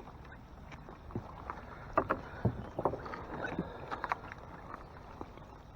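Water splashing and knocking against a small fishing boat while a hooked catfish is fought alongside, with irregular splashes and knocks clustered between about two and four seconds in, over a steady hiss of wind and rain.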